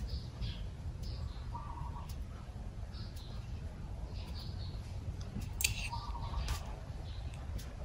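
Small birds chirping in short, high calls scattered throughout, over a steady low rumble, with a sharp click about five and a half seconds in.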